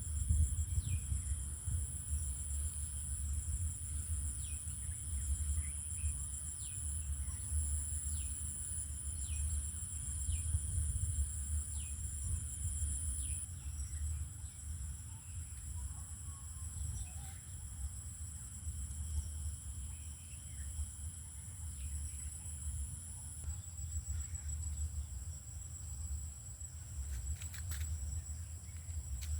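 Outdoor ambience: a steady high-pitched drone of insects with short, repeated, falling bird chirps over a constant low rumble.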